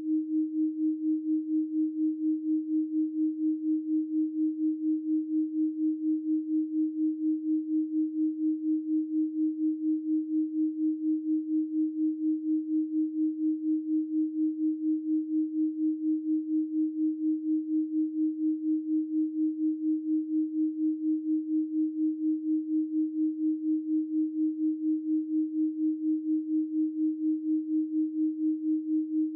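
A steady electronic 312 Hz pure sine tone, one unchanging pitch with no overtones, its loudness pulsing evenly a few times a second.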